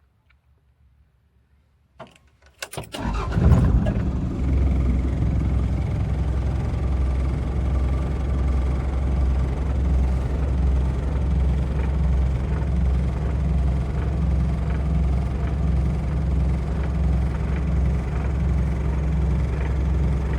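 Toyota Land Cruiser 40 (BJ44V) four-cylinder diesel engine cranked by the starter about two seconds in, catching within a second with a loud burst and settling into a steady idle.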